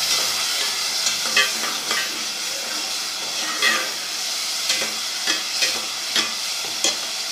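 Minced meat with ginger-garlic paste frying in a pot, a steady sizzle broken by about eight sharp scrapes and knocks of the stirring spoon against the pot.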